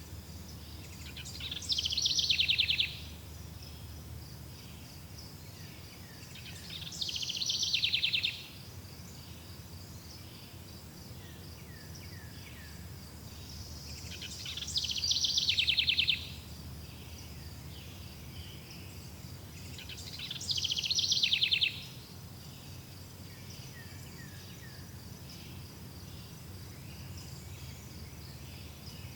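A songbird repeats a short, fast trilling song about every six seconds, four times. Under it run a steady high-pitched insect drone and a low, steady hum.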